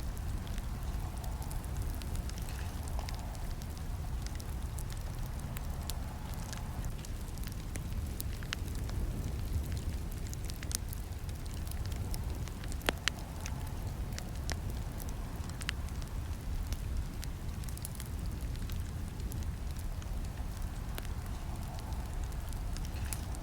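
Campfire burning: a steady low rumble of flames with scattered sharp crackles and pops from the wood, the loudest pop about 13 seconds in.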